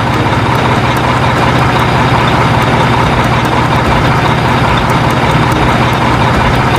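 Truck engine running steadily with a low hum, starting and cutting off abruptly like an added sound effect.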